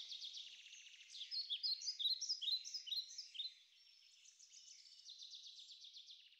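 Small songbirds chirping and trilling. A run of quick, falling chirps comes in about a second in and is the loudest part, then a softer rapid trill runs on near the end and stops.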